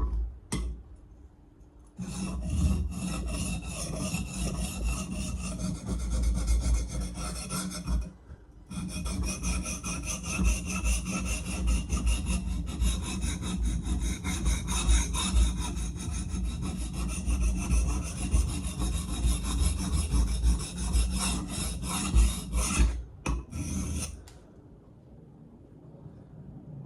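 Steel blade being stroked back and forth across the coarse 325-grit side of a Sharpal diamond sharpening plate, a steady gritty scraping. It starts about two seconds in, breaks off briefly near eight seconds, and stops after a few last strokes near twenty-four seconds.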